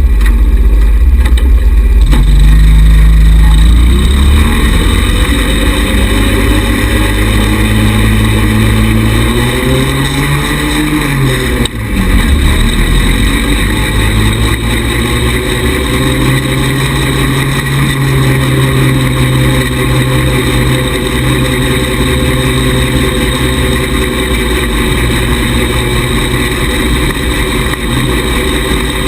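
A 110cc buggy's small single-cylinder four-stroke engine running under way, its pitch rising and falling with the throttle. Its pitch climbs from about two seconds in, drops sharply near the middle, then rises again and holds steady. A strong low rumble covers the first few seconds.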